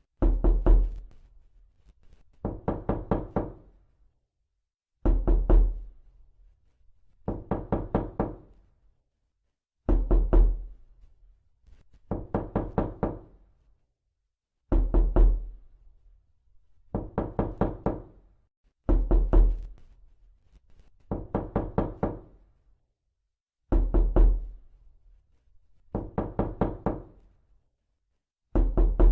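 Knuckle-style knocking: quick runs of about five knocks, repeated every two seconds or so with short silences between.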